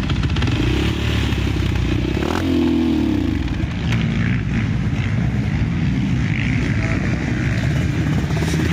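Motocross bike engines running loudly, with one engine's note revving and then falling in pitch about two and a half seconds in.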